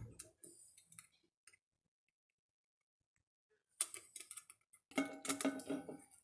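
Light clicks and taps of thin wire and a tin can being handled and bent. The sound starts with a thump and a few scattered ticks, stops for about two seconds, then returns as a busier run of clicks with some brief ringing.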